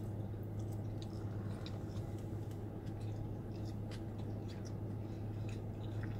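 A person chewing a mouthful of Singapore rice noodles: faint, scattered little mouth clicks over a steady low hum.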